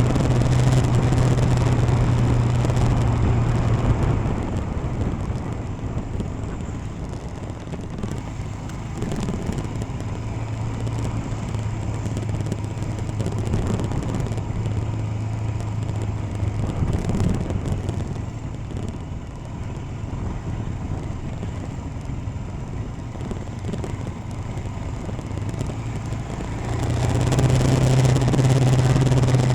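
Royal Enfield Himalayan motorcycle's single-cylinder engine running while riding, a steady drone. Louder for the first few seconds and again near the end, quieter in between.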